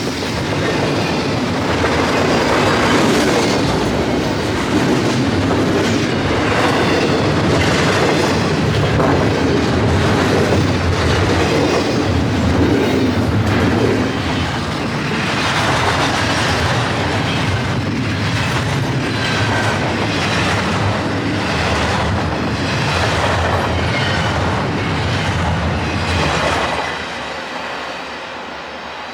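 Intermodal freight train's cars rolling past at speed, the wheels clacking over the rail joints in a repeating rhythm, with a steady rumble of wheels on rail. The noise falls off sharply near the end as the train draws away.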